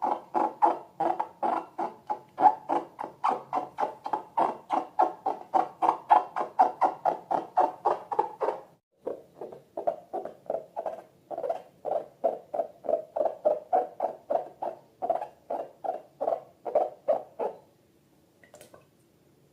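Slime squeezed and worked by hand in quick rhythmic strokes, about three to four wet squeaky squelches a second. There is a brief break about nine seconds in, and the strokes stop near the end.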